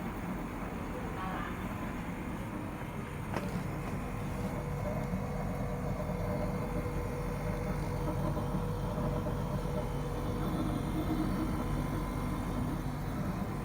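Sharp (Gree) AU-A5UCY air conditioner outdoor unit running: a steady low hum with a faint steady whine above it, and one brief click about three seconds in.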